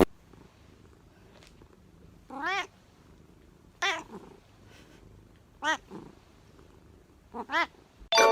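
A cat meowing four times, a second or two apart; each short call rises and then falls in pitch.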